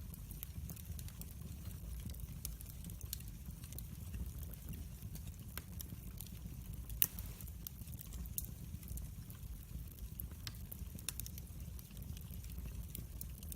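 Wood fire burning in a fireplace: a steady low rumble with frequent small crackles and one sharper pop about seven seconds in.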